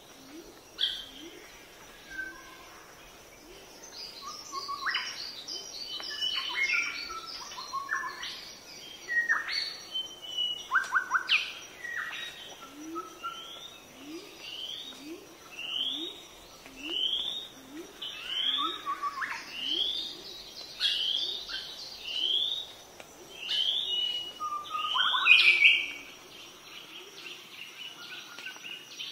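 Wild birds calling: a run of short rising chirps, coming about once a second through the second half, over a lower short call that repeats steadily, with a few sharp clicks between.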